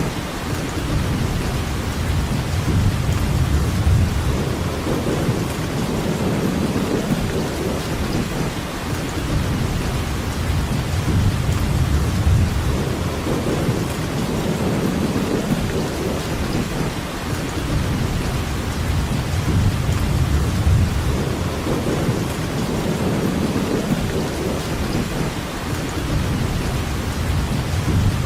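Steady heavy rain hissing, with low rolling thunder that swells and fades every several seconds.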